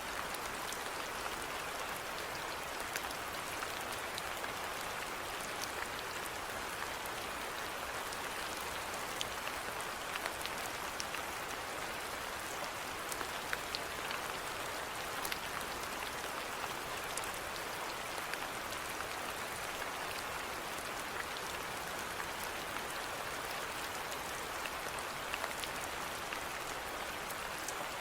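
Steady rainfall, an even hiss with scattered individual drops ticking throughout.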